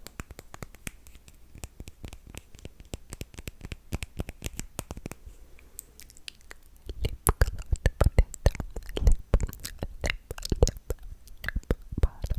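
Close-miked sticky, wet mouth and lip-gloss sounds: a fast run of small clicks and crackles that grows louder and denser about halfway through.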